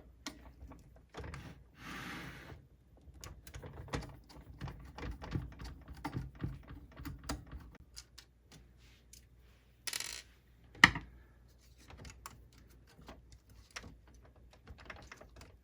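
Small irregular clicks and rattles of screws being taken out of a laserdisc player's chassis and of the metal plate and parts being handled, with one sharp knock about eleven seconds in.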